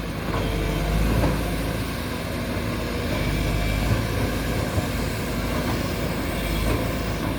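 Backhoe excavator engine running steadily.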